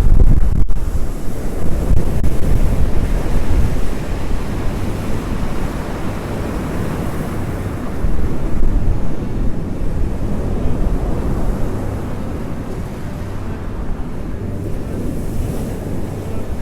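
Black Sea surf rumbling and washing onto the shore, with wind buffeting the microphone. The surf swells louder in the first few seconds and again about halfway through.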